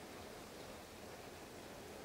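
Faint, steady storm noise: an even hiss with no separate events.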